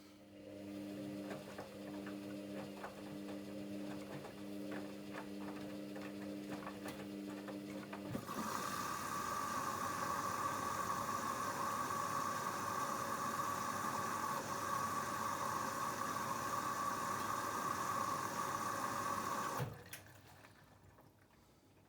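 Hoover Dynamic Next washing machine: a low hum with light clicking for the first eight seconds or so, then a steady rush of water as it fills through the inlet valve, which shuts off sharply a couple of seconds before the end.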